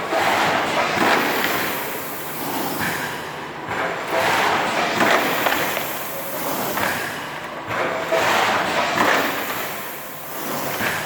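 Thermoforming machine running, a noisy mechanical cycle that swells and eases about every four seconds, with thuds in it.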